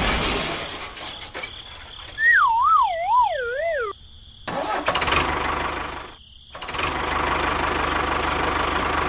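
A wavering whistle-like tone that slides downward in steps about two seconds in, followed by bursts of steady engine-like running noise with a low rumble.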